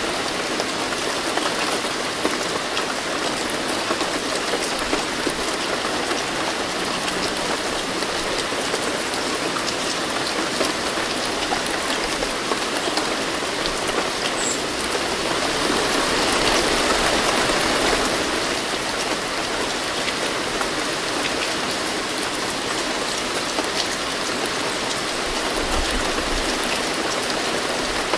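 Steady rain with scattered drop patter, swelling briefly heavier about two-thirds of the way through.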